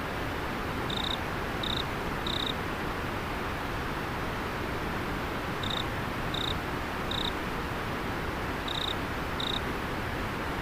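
Steady rush of a flowing river, with an insect chirping over it in short high notes. The chirps come in runs of two or three, about a second in, midway and near the end.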